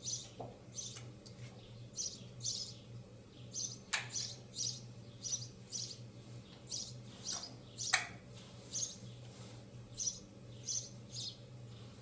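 A bird chirping over and over in short, high calls, about one or two a second, with two sharp clicks, one about a third of the way in and a louder one past the middle, over a steady low hum.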